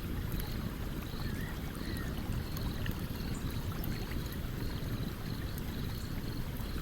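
Stream water running steadily, with small crackles and pops from a campfire and a faint high chirp repeating about twice a second.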